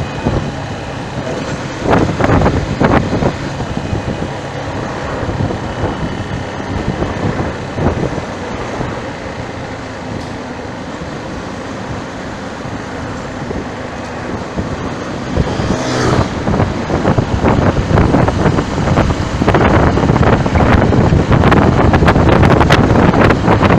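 Road traffic and wind buffeting the microphone: a dense, noisy rumble with a couple of short surges, growing louder and gustier over the last several seconds.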